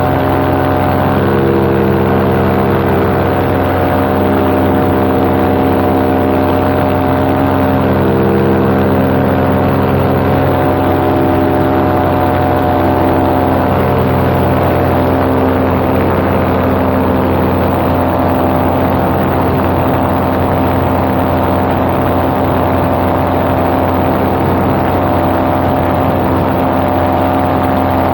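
Paramotor engine and propeller running steadily in flight: a constant drone whose pitch shifts slightly now and then.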